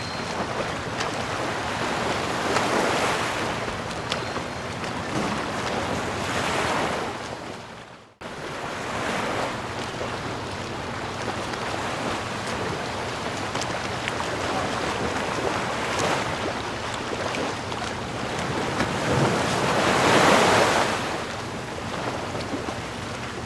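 Ocean waves washing onto a shore: a steady rush of surf that swells and falls back every few seconds, loudest near the end. About eight seconds in the sound fades and cuts out for an instant, then resumes.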